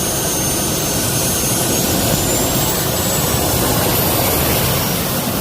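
Jet engine running: a loud, steady roar with high whistling tones that creep slightly higher in pitch partway through.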